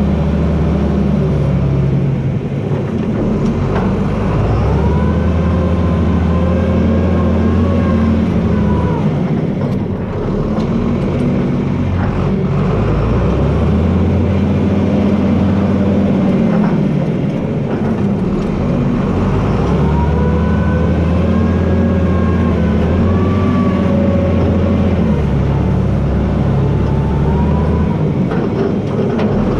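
John Deere 4320 tractor's six-cylinder diesel engine running hard while the front blade pushes trees. The engine note shifts twice, about five seconds in and again about twenty seconds in, with a higher whine that rises and falls along with it.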